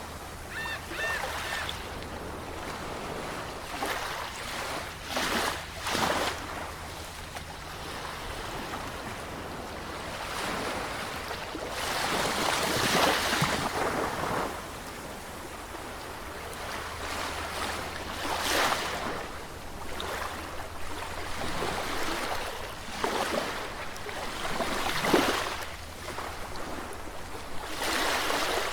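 Sea waves breaking and washing on a shore, swelling and fading every few seconds, with a steady low rumble of surf underneath.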